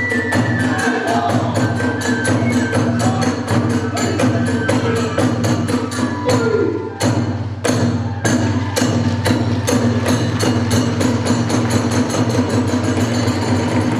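Hiroshima kagura hayashi: rapid, evenly spaced beats of about four a second from the percussion (drum and clashing hand cymbals), with a high flute line early on. The beat breaks off briefly about seven seconds in, then resumes.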